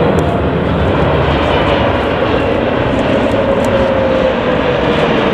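Jet airliner engines, a loud steady rumble with a whine that slowly falls in pitch.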